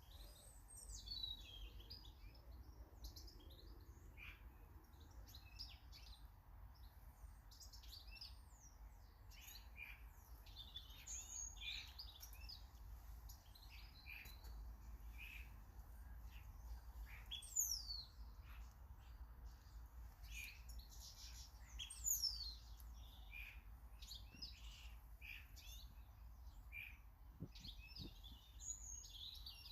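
Garden birds chirping and calling in a busy mix of short, high chirps, with two louder, sharply falling whistles about two-thirds of the way through.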